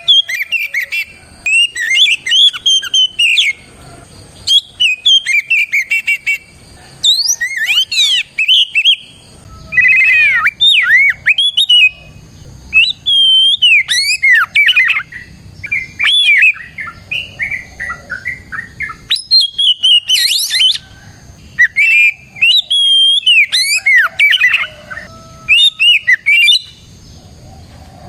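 Oriental magpie-robin (kacer) in full song: a loud, fast run of varied whistles, trills and chirps in phrases of a second or two, with brief pauses between them.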